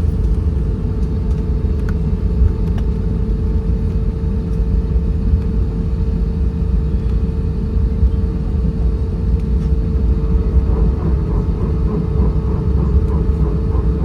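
Cabin noise of an Airbus A320-232 with IAE V2500 engines, on the ground after landing: a steady low rumble of engines and wheels with a steady hum. About ten seconds in, a faint rapid pulsing of about three to four beats a second joins it.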